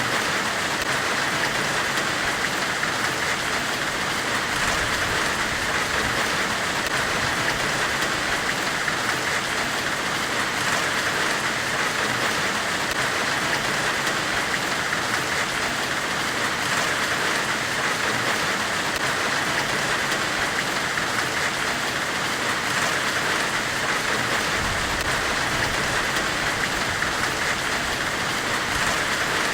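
Steady, unchanging hiss of a white-noise ambience track meant to evoke a forge weld, brightest in a narrow band in the middle of its range.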